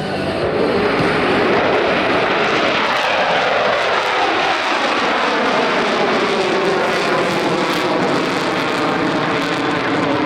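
Blue Angels F/A-18 Super Hornet jets passing overhead, a loud roar of jet engines whose whine falls in pitch as they go by.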